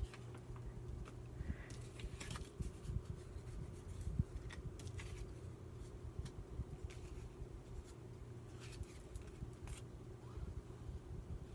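Paper and craft supplies being handled at a work table: scattered soft rustles and small clicks over a steady low hum.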